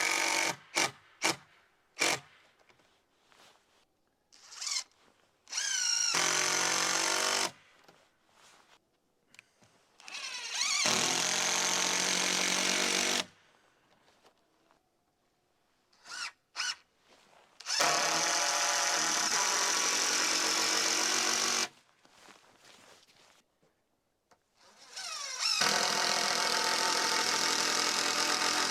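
Power drill driving screws into wood framing: a few quick trigger blips, then four separate runs of a few seconds each, each one spinning up, holding steady and stopping abruptly.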